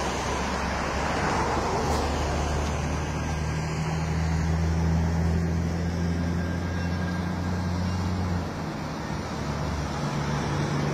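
Motor vehicle engine running with a steady low hum that stops about eight seconds in, over a background of road traffic noise.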